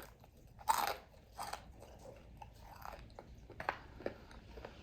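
Biting into crispy lumpia-coated fried chicken and chewing it: a loud crunch just under a second in, another soon after, then smaller crunches and chewing.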